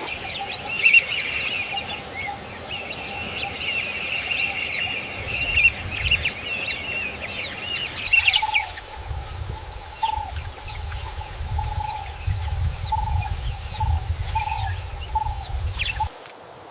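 Wild birds chirping densely in high, rapid calls. About halfway through, the ambience switches abruptly to a different bird giving repeated short, falling calls over a steady high-pitched whine and a low rumble, all cutting off shortly before the end.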